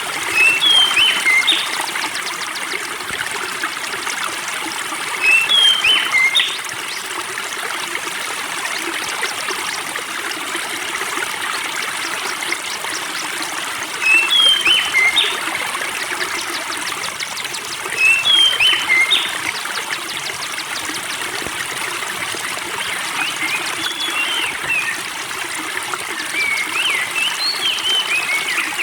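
Spring water trickling and running steadily, with a songbird singing short phrases of quick whistled notes about every four to five seconds.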